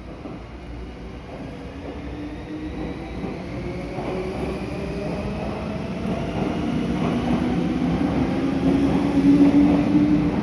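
Meitetsu 6500 series electric train pulling away. It grows steadily louder, and a motor whine rises in pitch as it gathers speed.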